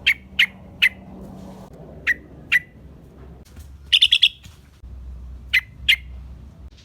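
Yellow-vented bulbul (trucukan) calling: short, sharp notes mostly in pairs about half a second apart, with a quick run of four notes about four seconds in. A bird-lure recording of the species' lively "gacor" calls.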